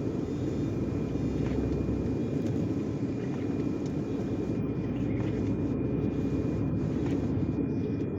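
Heavy truck's engine running steadily with road noise, heard from inside the cab as an even low rumble.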